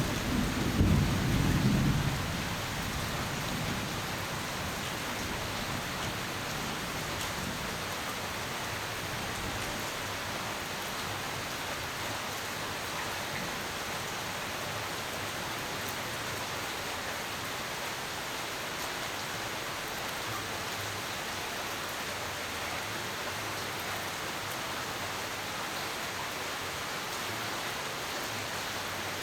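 A roll of thunder rumbling and dying away in the first two seconds, over rain falling steadily, which then carries on alone.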